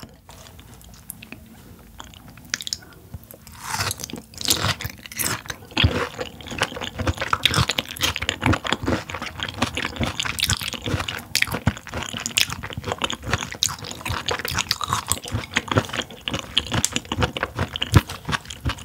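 Close-miked chewing of raw mullet gizzard dressed in sesame oil. It is quiet for the first three or four seconds, then a dense run of clicks as the firm pieces are bitten and chewed.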